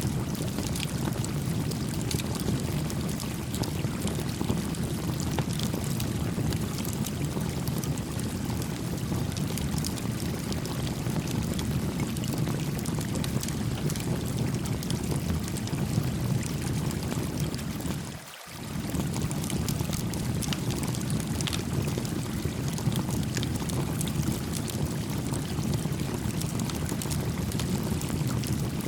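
A stream running steadily over rocks, its rush strongest in the low range, with faint crackles from a small wood campfire. The sound dips briefly about two thirds of the way through.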